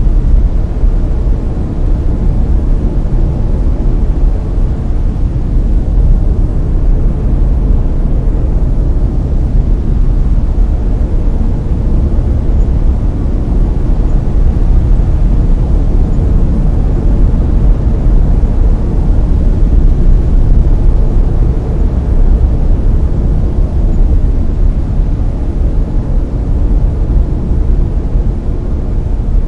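Layered brown noise: a steady, deep, rumbling hiss, loudest in the bass and thinning out toward the treble, with no events or changes.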